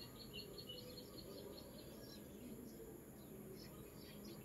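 Faint birds chirping in the background: a quick, even series of high chirps that stops about a second and a half in, then scattered chirps near the end, over quiet room noise.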